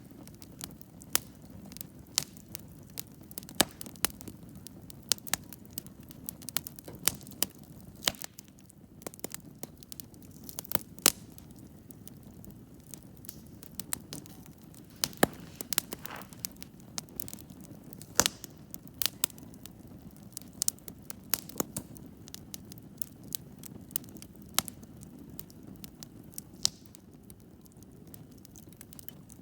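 Wood campfire crackling: irregular sharp pops and snaps, several a second at times, over a steady low hiss of the burning fire.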